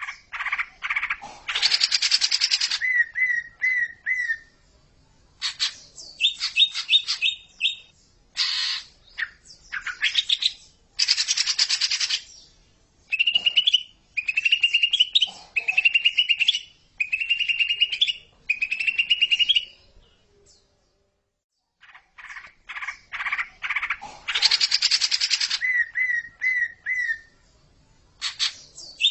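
Cucak ijo (green leafbird) song played as a looped tutor recording: loud harsh bursts, rapid chattering trills and rising whistled phrases of about a second each, with a brief pause a little past two-thirds through, after which the opening phrases come round again.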